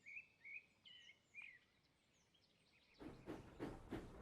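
Near silence, with a few faint short bird chirps in the first second and a half. Other faint sound begins about three seconds in.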